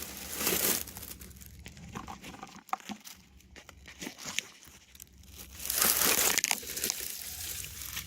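Dry debris crackling and rustling as it is scooped by hand out of a rain gutter: a short bout at the start and a louder, longer one around six seconds in, with scattered small crackles between.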